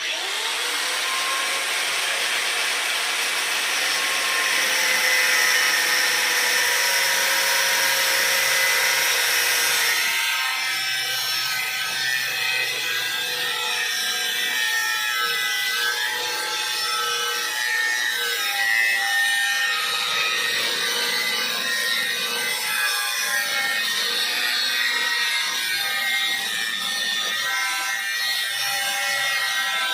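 Power tool running steadily under load, spinning up at the start, with its pitch wavering as it works. The hiss thins out about ten seconds in.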